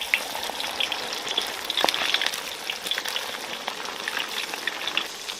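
A whole cornstarch-coated perch frying in plenty of hot oil in a wok, sizzling steadily with dense crackles just after it goes in.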